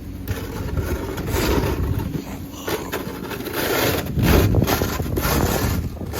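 Snow shovels scraping and digging snow around a stuck car, in irregular strokes over a steady low rumble.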